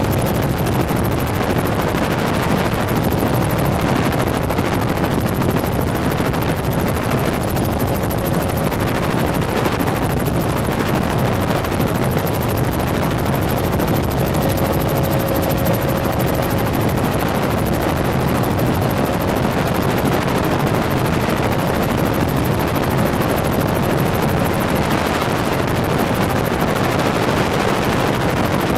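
Helicopter in flight: steady, loud rotor and engine noise, a dense rush with no letup, and a faint whine showing through about halfway.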